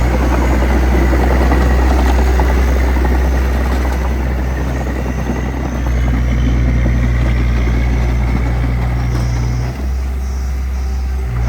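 Small crawler bulldozer's diesel engine running steadily under load, a deep hum with a dense clattering noise over it. The engine note dips briefly near the end.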